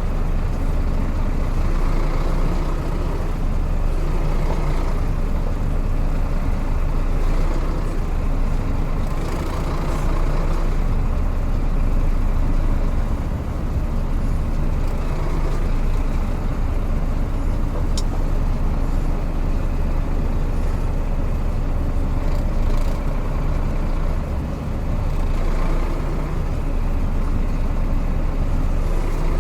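Scania truck's diesel engine running steadily at an even, low pitch.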